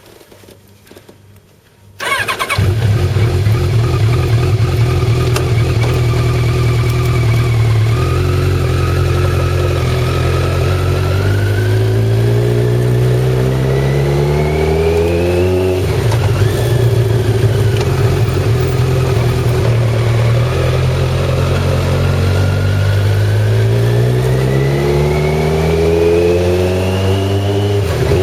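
Kawasaki ZZR1100's inline-four engine running under way, starting abruptly about two seconds in. Its pitch climbs as the bike accelerates, drops suddenly about halfway through at a shift up, then climbs again near the end.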